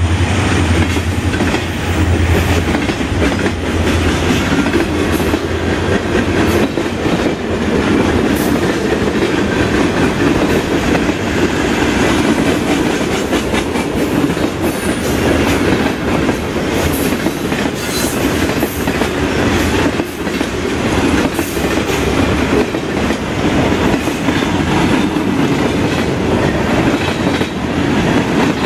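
Pan Am Railways freight train's cars rolling past close by at speed: a continuous loud rumble of steel wheels on rail with rapid clickety-clack as the wheels cross rail joints. A low hum is strong in the first few seconds, then fades.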